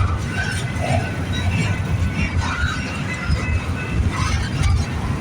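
Double-stack container train rolling past, a steady low rumble of the cars on the rails.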